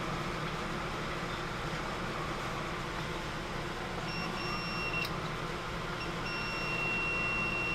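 A multimeter's continuity beeper sounding a steady high beep from about four seconds in, with a few short breaks, as the compressor is tested to ground: the beep shows the compressor is grounded. A steady equipment hum runs underneath.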